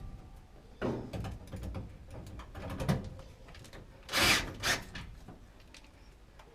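Tool and hardware handling noises while a furnace draft inducer blower is being screwed into place: scattered clicks and knocks, with two louder sharp clatters a little past the middle.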